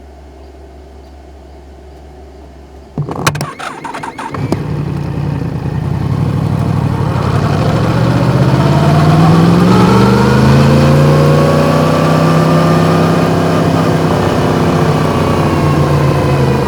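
Yamaha MT-10 crossplane inline-four with an Akrapovič exhaust starting up about three seconds in, a brief crank and catch, then running and pulling away at low speed, its pitch rising slowly, holding, and easing off near the end.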